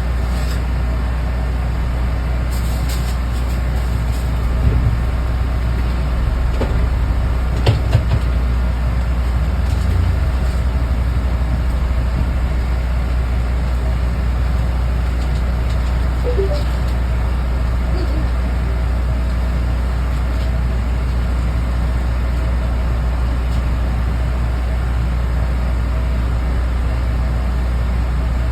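Steady low machine drone, with a few short knocks and clatters about five and eight seconds in.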